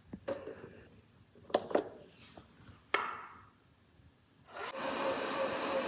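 A few sharp clicks and knocks, then about four and a half seconds in the Roborock RockDock Plus auto-empty station's suction motor starts up with a steady whoosh and a held hum, pulling the dirt from the robot vacuum's dustbin into the dock's bag.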